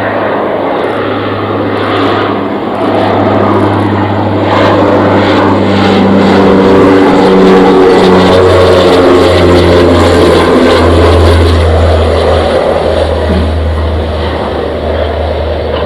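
Antonov An-26's twin AI-24 turboprop engines and propellers passing on landing approach: a steady propeller drone that grows louder, drops in pitch about seven to eight seconds in as the aircraft goes by, and eases off near the end.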